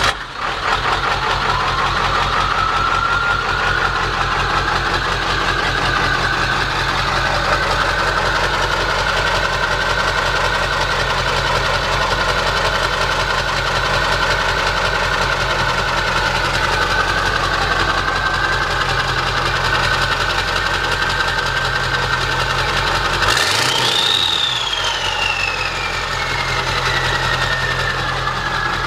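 Ford 7.3 L Power Stroke V8 turbo-diesel, straight-piped, idling with diesel clatter and a steady turbo whistle that rises over the first few seconds after start-up. About 23 seconds in, the engine is revved briefly: the turbo whistle climbs sharply, then slowly falls away.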